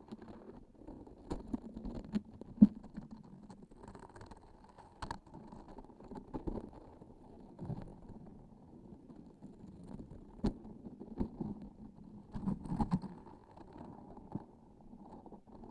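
Close-miked squishing and handling of sticky transparent objects: irregular soft, muffled squelches and sticky pulls, with a few sharp clicks, the loudest about two and a half seconds in.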